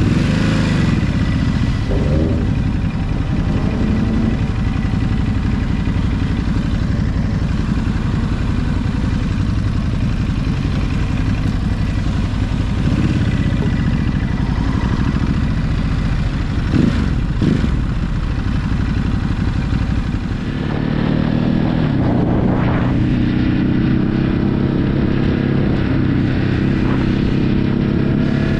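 Ducati Hypermotard motorcycle engine running under way, its pitch rising and falling with the throttle. It briefly dips about two-thirds of the way through, then holds a steady pitch.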